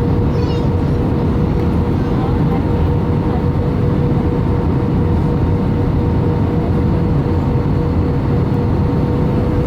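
Steady jet engine and airflow noise inside the cabin of an Airbus A318 airliner, a deep even rumble with a constant hum tone running through it.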